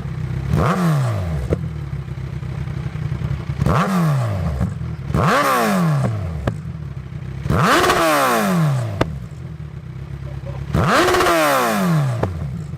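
Kawasaki Z1000 inline-four motorcycle engine idling through a new aftermarket Black Widow header, revved five times, each blip rising quickly and falling back to idle, the later ones held longer.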